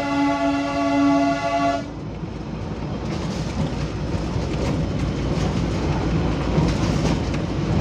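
Diesel train's horn sounding a steady note that cuts off about two seconds in, then the train running on, with a low rumble and the clicking of wheels over rail joints.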